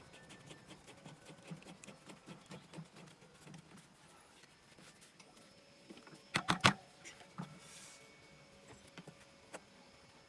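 Hand work on a motorcycle wheel part that will not go in: small scattered clicks and taps, with a quick run of three or four sharp metallic knocks about six and a half seconds in.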